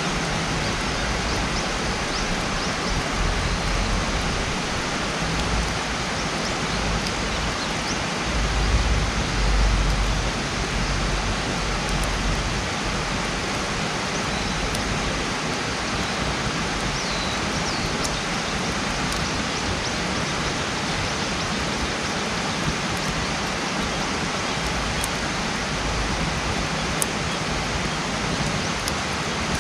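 Campfire burning with a few faint pops and crackles over a loud, steady rushing noise. Low rumbles of wind on the microphone swell during the first third.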